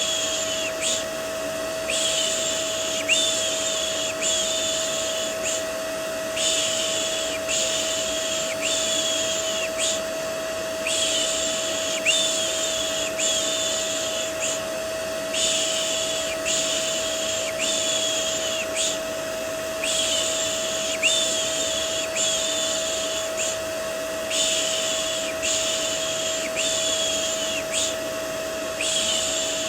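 Vacuum cleaner white noise with a steady motor tone, overlaid by rhythmic 'shh' shushing for soothing a baby. The shushes come about once a second in groups of four, with a short pause between groups.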